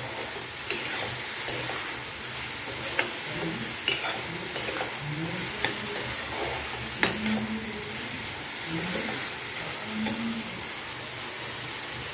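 Diced mushrooms, capsicum and sweet corn sizzling in a hot wok, stirred with a steel spatula that clicks and scrapes against the pan now and then.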